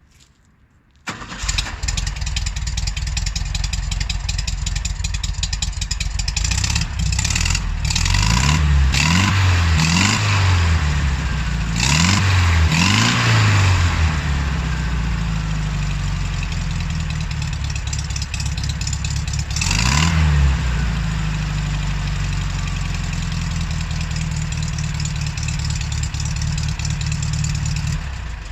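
VW Beetle 1200's air-cooled flat-four running through its original exhaust: it starts about a second in and settles to an idle. It is revved in a few quick blips, several in a row and one more later, each rising and falling back. The engine stops near the end.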